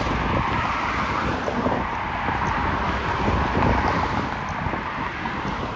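Wind buffeting the microphone in an irregular low rumble, over a steady haze of road traffic noise.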